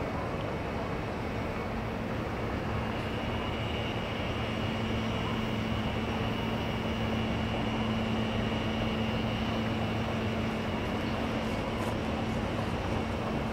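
CSX freight train rolling by: a steady rumble with an even low hum, and a faint thin high whine that comes in about three seconds in and fades near the end.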